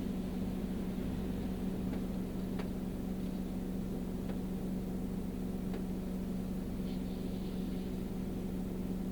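Car cabin sound while driving in the rain: the car's engine and road noise make a steady low hum, broken by a few faint ticks.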